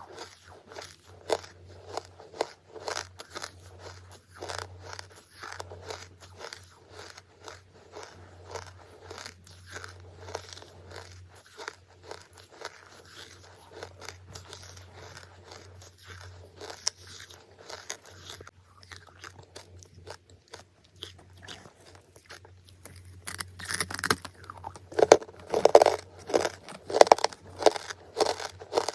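Close-up chewing and crunching of hard, brittle charcoal, a rapid run of crisp crackly crunches with a few sharper bites. It grows louder and denser about three-quarters of the way through, and a faint low hum lies under the first part.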